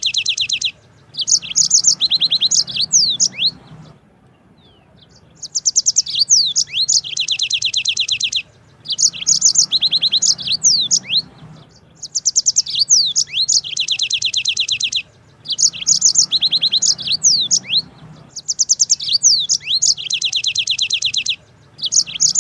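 Yellow-fronted canary (Mozambique canary) singing long rolling song phrases of fast high trills and quick sweeping chirps. The phrases come in bursts of a few seconds, with short pauses between them.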